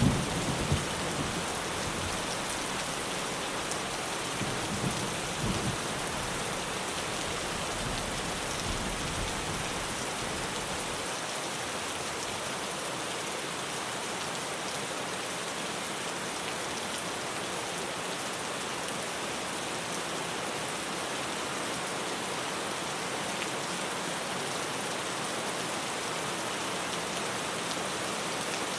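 Steady heavy rain drumming on a tin roof, with low rolls of thunder right at the start and again about five seconds in.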